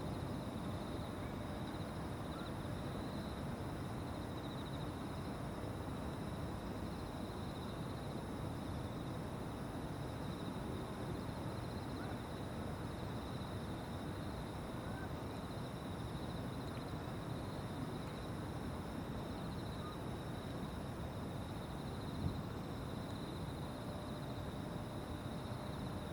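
Evening riverside ambience: a chorus of insects trilling steadily in high-pitched bands over a low, even rumble, with one short knock about 22 seconds in.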